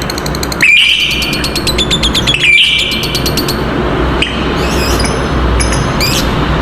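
Lovebirds giving the long, rapid chattering trill called 'ngekek'. Two loud trill bursts come about a second and two and a half seconds in, then softer chirps over a steady low hum.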